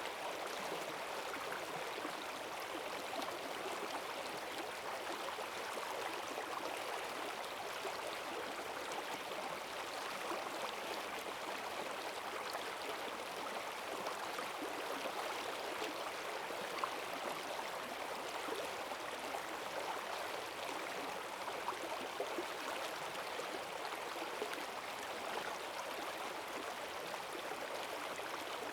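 Forest stream running high after heavy rain: a steady rush of fast-flowing water, with small splashes and gurgles over it.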